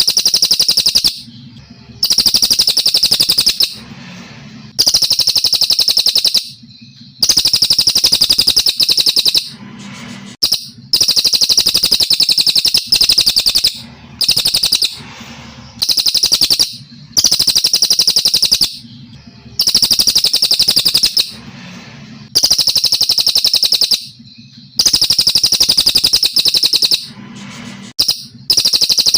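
Brown cililin, a Kalimantan songbird, singing: loud, rapid trilled phrases of about two seconds each, repeated one after another with short pauses between.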